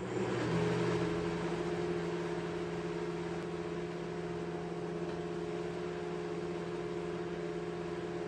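An electric woodworking machine switches on just before and runs steadily with an even hum and whir.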